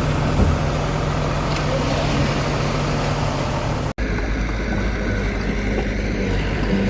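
Diesel engine of a small Komatsu D21A bulldozer running steadily. About four seconds in, the sound drops out for an instant and comes back with a deeper engine tone.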